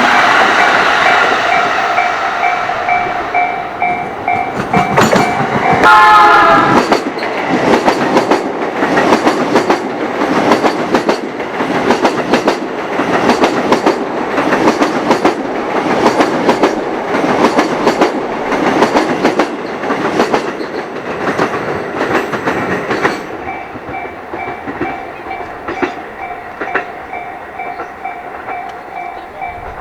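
A train passing at a level crossing: the crossing alarm rings with a steady repeating tone, a train gives a short horn blast about six seconds in, then the wheels clatter over rail joints in a fast even rhythm for about fifteen seconds before the alarm is heard ringing alone again.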